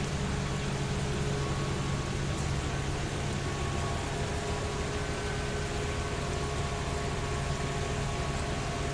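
Steady machine hum with an even hiss and a few faint constant tones, unchanging throughout.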